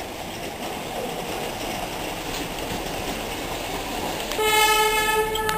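Narrow-gauge Darjeeling Himalayan Railway toy train running with a steady rumble. About four seconds in, a loud horn starts and holds one steady pitch.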